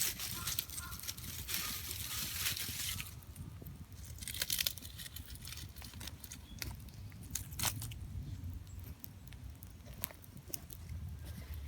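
Wood campfire crackling, with a rustling hiss for the first few seconds and a few sharp pops scattered through, over a steady low rumble.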